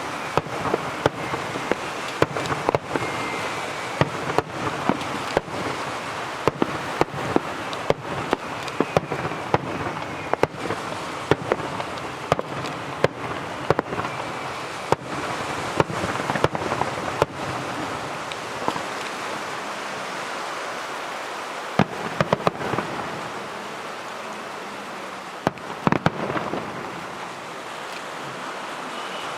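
Aerial fireworks shells bursting: a rapid run of sharp bangs and crackles over a steady rushing noise. The bursts thin out after about twenty seconds, then come in a last cluster near the end.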